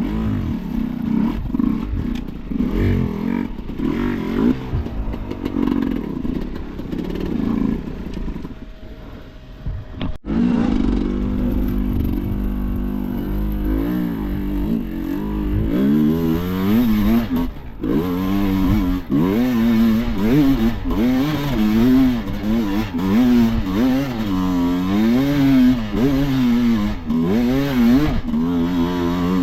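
Enduro motorcycle engine revving up and down over and over, its pitch rising and falling about once a second, with a short drop in loudness about ten seconds in.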